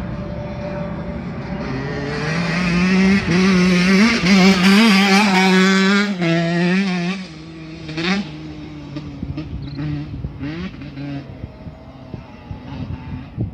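Two-stroke dirt bike engine revving, its pitch climbing and dropping with the throttle. It grows loud over the first few seconds, drops away sharply about seven seconds in, and carries on quieter with short throttle blips.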